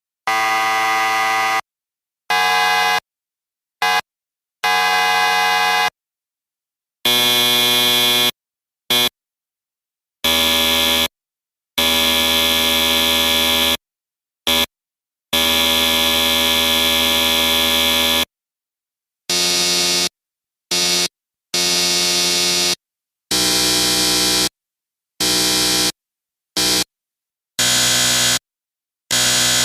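Buzzers sounding in a series of harsh, steady buzzes, some short blips and some held for several seconds, each starting and stopping abruptly with silent gaps between. The tone of the buzz changes a few times, as different buzzers take turns.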